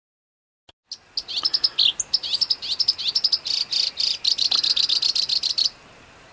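Songbird singing a rapid-fire 'tembakan' phrase of fast, high chattering notes, the kind of song played as a masteran to tutor competition birds. It starts about a second in and breaks off abruptly near the end.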